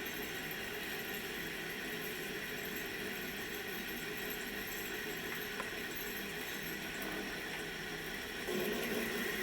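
Takisawa TCN-2100 CNC lathe running steadily: an even hiss with several held tones, growing louder for about the last second.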